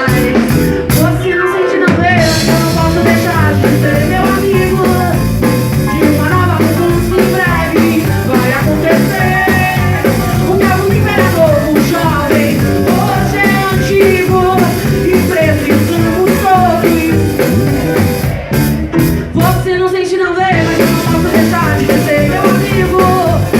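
Live band music with a lead vocal singing a melody; about three-quarters of the way through the band drops back for a moment before the full sound returns.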